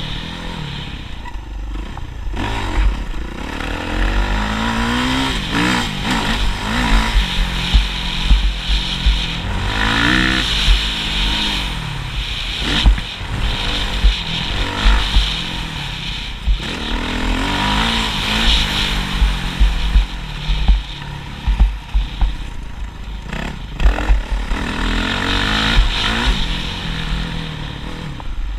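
Motocross bike engine revving up and down over and over as it is ridden round the track, with the pitch climbing and dropping every few seconds. Scattered clattering knocks come through on top.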